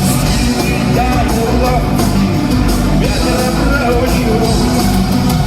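Loud rock music: a full band playing the song.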